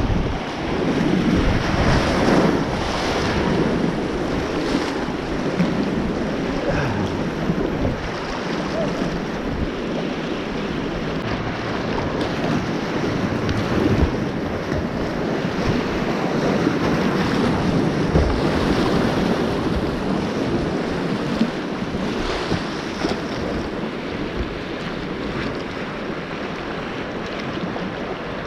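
Whitewater river water rushing and splashing close to the microphone, with wind buffeting it in uneven gusts and a few louder surges.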